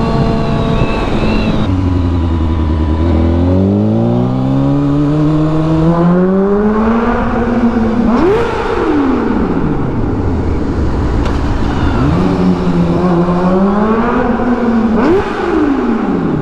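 2023 Honda Grom's single-cylinder engine under way. It holds a steady note at first, then climbs in pitch for several seconds as the bike accelerates. A quick sharp rev near the middle is followed by a long falling note as it slows, then it climbs again and gives another quick rev and fall near the end.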